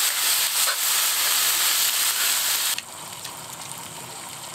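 Pork belly and kimchi sizzling and crackling on a grill pan over a gas burner. The sizzle drops suddenly to a much quieter hiss about three seconds in.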